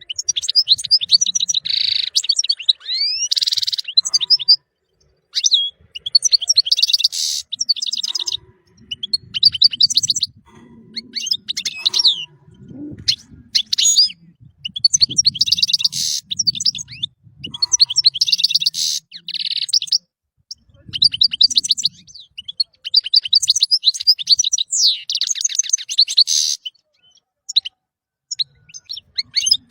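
European goldfinch singing: phrases of fast, liquid twittering and trills a few seconds long, broken by short pauses.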